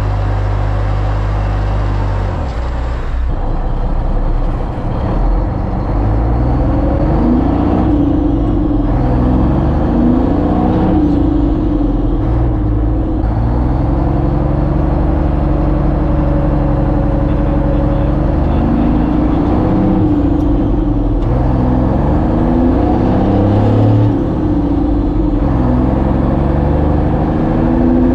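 A motor vehicle's engine running under way, its pitch climbing and dropping back several times, as it does when accelerating through gear changes.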